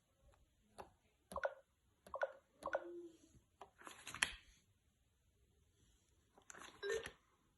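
Scattered light clicks and a few short bursts of sound from handling a VTech VT8262 talking learning book. The loudest burst comes about four seconds in and another near the end.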